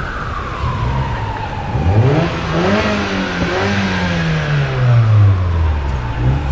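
A car engine revving up sharply about two seconds in, then its pitch falling slowly as it passes. Over the traffic a siren wails, its pitch falling slowly and starting to rise again near the end.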